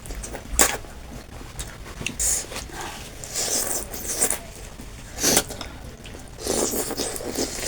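Someone eating chicken thukpa noodle soup, slurping and chewing in several short, irregular bursts.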